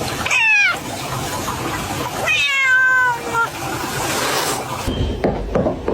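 A cat giving two falling, whining meows, a short one and then a longer one about two seconds in, over a hissing noise. Near the end a low rumbling noise with knocks comes in.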